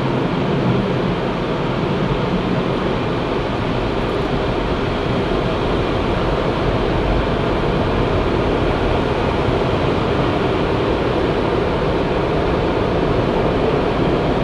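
Automatic car wash machinery running, heard from inside the car: a loud, steady rushing noise with no breaks.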